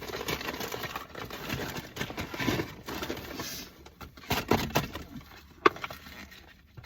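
Paper packaging rustling and crinkling as it is handled and folded, with a few sharp crackles between about four and six seconds in.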